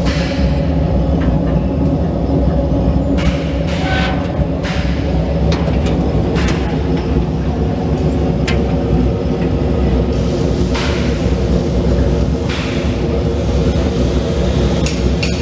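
Heated high-pressure parts washer running: a steady low mechanical hum with short bursts of hiss every second or two.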